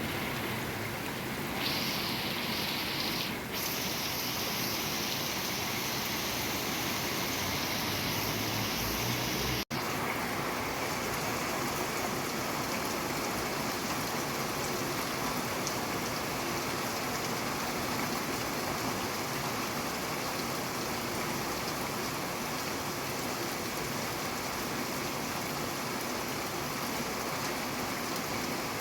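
Steady rain falling, an even hiss. About ten seconds in the sound drops out for an instant, and the hiss after it is steadier and less bright.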